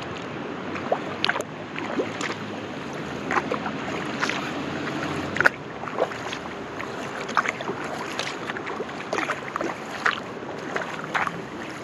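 Kayak paddle blades dipping and pulling through the water: short, irregular splashes and drips several times a second over a steady rushing background.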